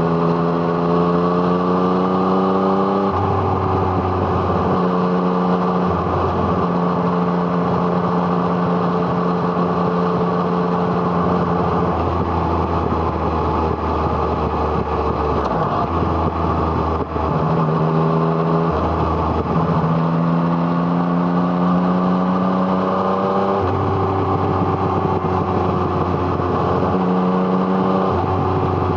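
Yamaha MT-09's inline-three engine breathing through an Arrow Thunder exhaust while riding. Its note climbs under acceleration and drops at gear changes, holds steady for a few seconds, then falls away as the throttle closes before pulling up again, over a steady rush of wind noise.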